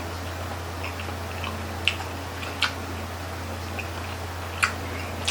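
Close-up eating sounds of grilled chicken-intestine skewers being chewed, with scattered short sharp clicks, three of them louder, over a steady low hum.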